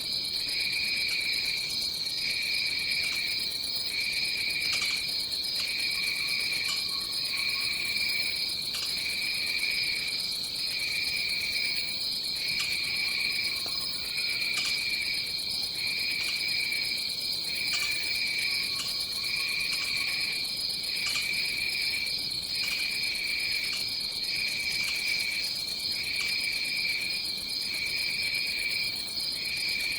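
Tropical rainforest insect chorus: one steady high-pitched drone, plus a lower pulsing trill that breaks off about once a second. A few faint, lower calls come and go in the background.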